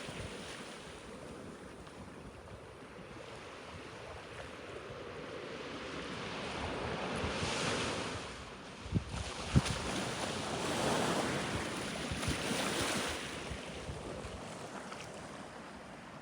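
A rushing noise that swells and fades twice, about seven and about eleven seconds in, with a couple of sharp knocks around nine seconds.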